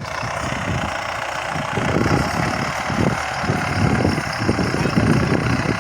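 Tractor engine running, a dense steady rumble that grows somewhat louder about two seconds in.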